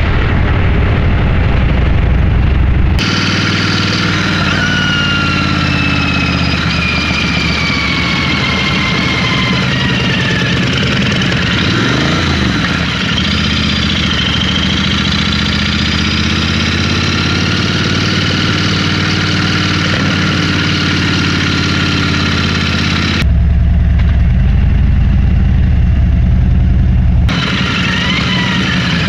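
Motorcycle engines running on the road, the engine note falling slowly in places. The sound changes abruptly to a heavier, deeper drone about three seconds in, and again briefly near the end.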